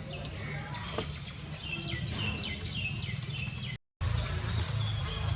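Baby macaque crying: a run of short, high, falling squeaks, several a second, with the sound cutting out briefly near the end.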